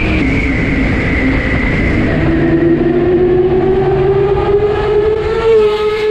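Motorcycle engine, most likely the camera bike's Yamaha MT-10 inline-four, pulling under load with a steadily rising pitch as it accelerates through the second half. Heavy wind rush and road rumble lie underneath.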